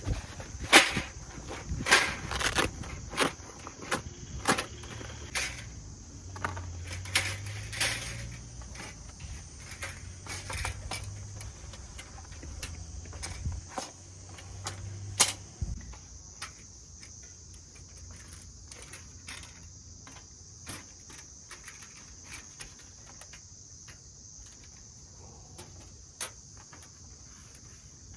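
Insects chirring steadily and high, with a string of sharp clicks and knocks over the first fifteen seconds or so that then thin out.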